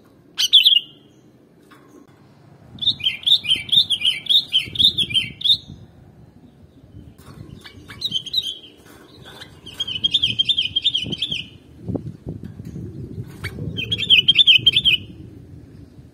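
Sooty-headed bulbul (kutilang) singing: a short call about half a second in, then four phrases of quick, warbling up-and-down notes with pauses between them.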